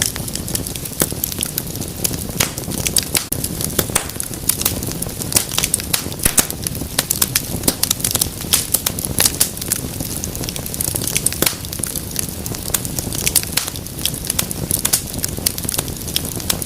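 Wood fire in a fireplace crackling: dense, irregular sharp pops and snaps over a steady low rush of burning flames.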